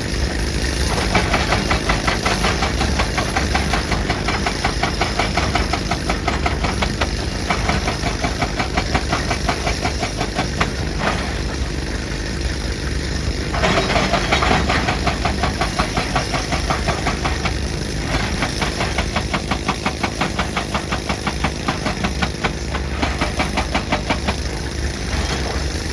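Excavator-mounted hydraulic rock breaker hammering rock in rapid, even blows over the excavator's steady diesel engine. The hammering stops briefly twice and starts again.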